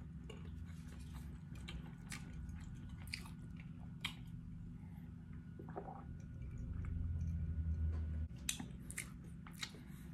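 Close-up chewing and wet mouth clicks of a person eating meat soup with rice. About six seconds in comes a drink from a glass, with a louder low swell of gulping that lasts a second or two.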